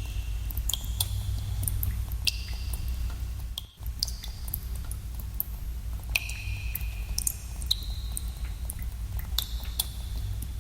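Water drops falling irregularly into a pool in a cave, each a sharp plink, many with a short ringing tone that echoes away, over a steady low rumble. The sound briefly drops out a little under four seconds in.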